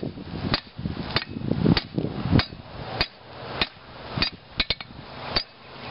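Blacksmith's hammer striking a hot, medium-to-low carbon railroad spike on an anvil, about ten blows at a steady pace a little under two a second, flattening the spike into a knife blade.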